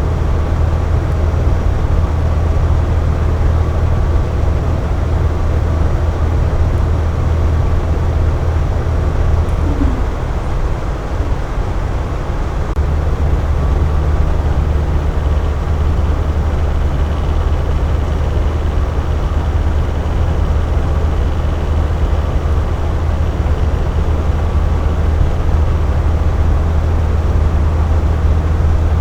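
Air conditioner running steadily: an even rushing noise over a strong low hum. The hum weakens for a couple of seconds about ten seconds in, then comes back.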